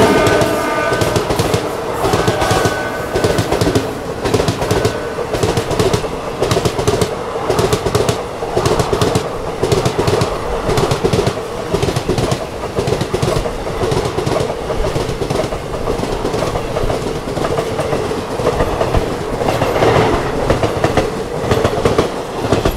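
Express train running at speed, its wheels clattering rhythmically over the rail joints at about two clacks a second, with a steady hum underneath, heard from on board.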